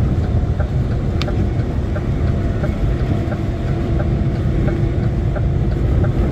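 Steady low engine and road rumble inside a lorry's cab while driving, with faint regular ticking and a single sharp click about a second in.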